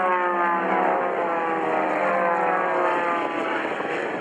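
Propeller airplane engine flying past, its pitch dropping steadily as it goes by and then fading near the end.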